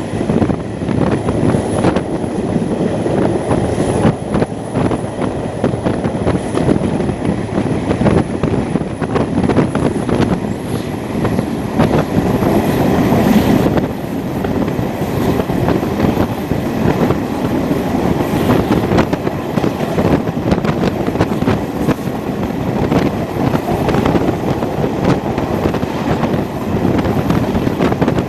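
Craven passenger coaches rolling at speed, heard from an open carriage window: a steady rumble of wheels on rail and rushing air, with recurring knocks from the track.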